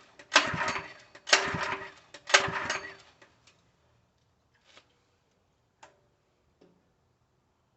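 Three loud rasping mechanical strokes about a second apart, then a few faint clicks.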